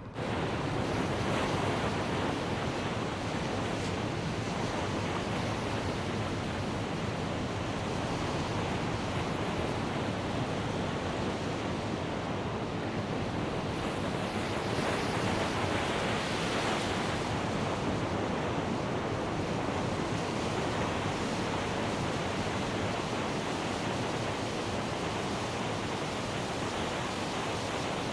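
Steady rush of moving water, even and unbroken, swelling slightly about halfway through.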